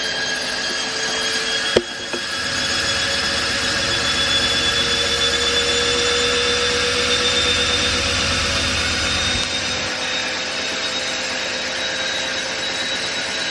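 Candy washing machine on its spin cycle: the motor and drum whirring steadily, with a sharp click about two seconds in. A low rumble then builds until about nine and a half seconds in and drops away.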